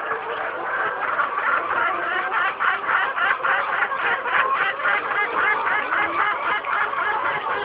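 A flock of laying hens clucking and calling together, many short calls overlapping into a continuous chatter.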